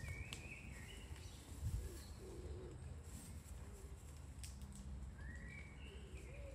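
Birds calling in the trees: a short gliding call near the start and another about five seconds in, over a steady low rumble.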